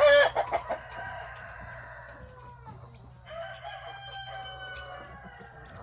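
Roosters crowing: two long crows, each sliding slightly down in pitch, the first just after a loud short squawk at the start.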